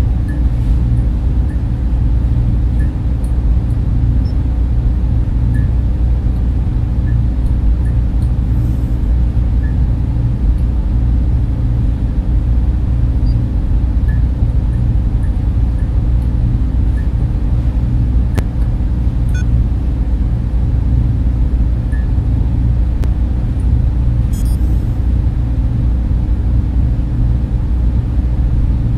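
Steady, low, rumbling drone of data center server and cooling fans, most of its weight deep in the bass, with a few faint ticks scattered over it.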